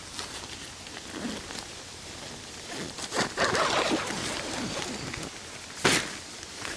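Rustling and handling noises from pitching a tent, with scattered light clicks, a longer rustling stretch in the middle, and one sharp knock near the end.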